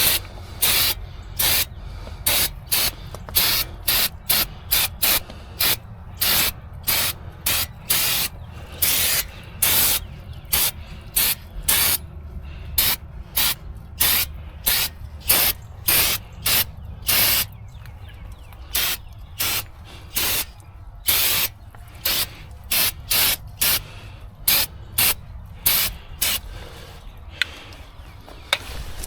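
Short hissing spray bursts, repeated about one to two times a second, each a fraction of a second long.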